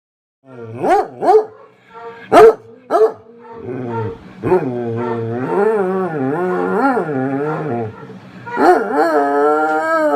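A dog gives four short sharp barks, then howls in long, wavering cries, twice.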